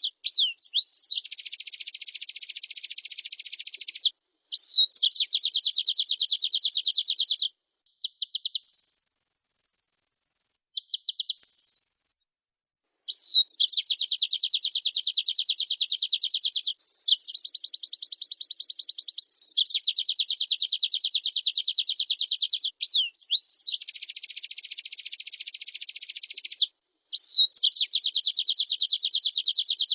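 White-eye (pleci) singing: long rapid trills lasting several seconds each, broken by short sliding whistles, with two higher-pitched phrases around ten seconds in.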